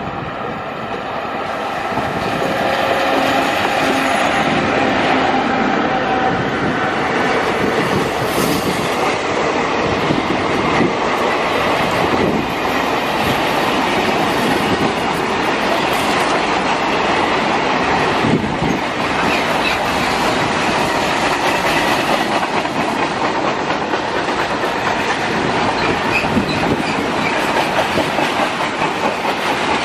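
A WAG7 electric locomotive hauling a long train of flat wagons passes close by. The sound swells over the first few seconds as the locomotive comes past, then turns to a long steady run of wagon wheels clattering over the rail joints.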